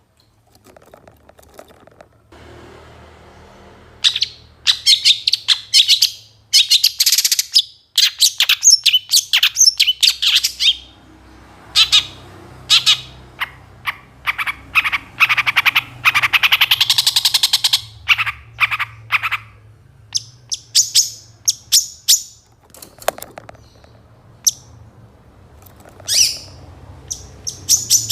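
Long-tailed shrike (cendet) singing an energetic, varied song full of mimicked calls of other birds: rapid high chirps and trills in bursts starting about four seconds in, a long unbroken trill around the middle, then scattered short chirps.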